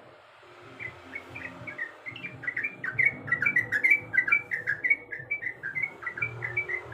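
Yellow-vented bulbul (trucuk) singing a fast chattering run of short notes. The song starts faintly about a second in and grows louder and denser from the middle on.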